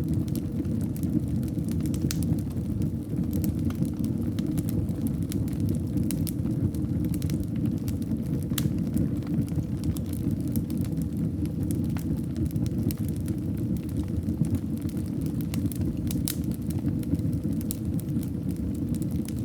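Wood fire burning in a fireplace: a steady low rumble of flame with frequent small crackles and pops.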